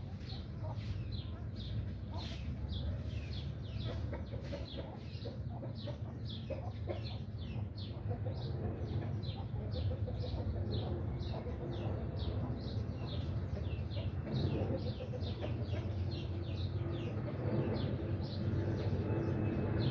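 Domestic chicks peeping continuously: many short, falling chirps, several a second, over a steady low rumble.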